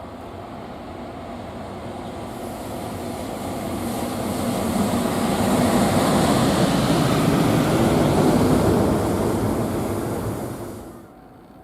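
Freight train passing at speed: a rumbling, rushing roar of wheels on rails that builds, is loudest in the middle, and drops away sharply near the end.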